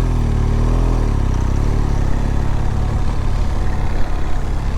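BMW R1200GS boxer-twin engine running at low speed, its revs swelling and dropping back in the first second and a half, then holding steady.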